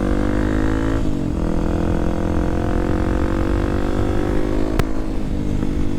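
Kawasaki KLX300SM's single-cylinder engine pulling under way. Its pitch climbs steadily, drops sharply at a gear change about a second in, then climbs again. Near the end a sharp click comes and the engine settles lower, over a steady rush of wind noise on the microphone.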